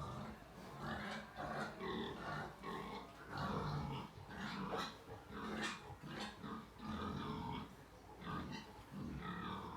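A nursing sow and her two-day-old piglets grunting in a quick, uneven series of short calls.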